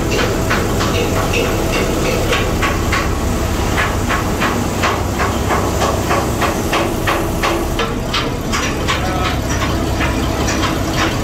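Ship's main diesel engine running loudly, with a rapid metallic clatter of about four clicks a second over a steady low rumble.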